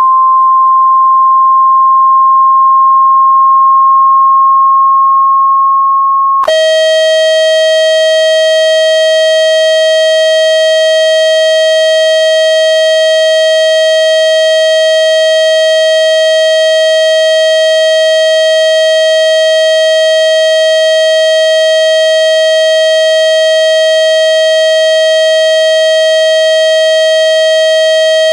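Loud electronic tone played to shake water out of a phone speaker. A single pure tone rises slightly in pitch, then about six seconds in it cuts over suddenly to a lower, buzzy steady tone that holds.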